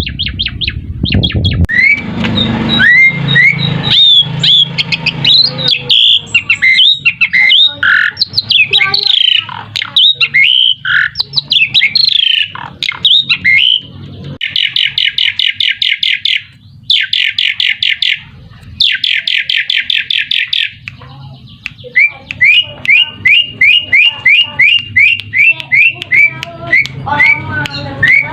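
Jalak suren (Asian pied starling) singing: a run of varied whistles and chirps, then two fast buzzy trills of about two seconds each, then a string of repeated down-slurred whistles about three a second. This is a lure song, meant to get other jalak suren to call back.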